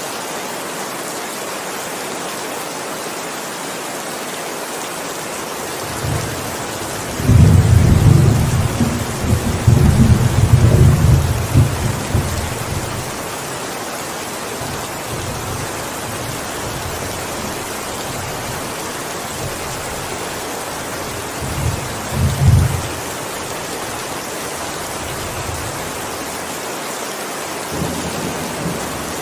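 Steady heavy rain with rolls of thunder: a long loud low rumble from about seven to twelve seconds in, a short one a little past twenty seconds, and another starting near the end.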